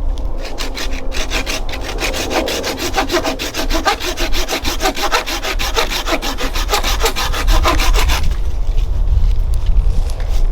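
Hand saw cutting through wood in quick, even strokes, starting about a second in and stopping about eight seconds in.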